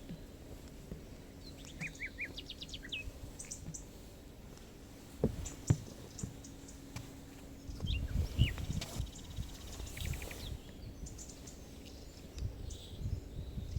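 Small songbirds chirping and trilling in short, scattered calls over quiet woodland ambience, with a faint steady low hum and a few soft low thumps and clicks partway through.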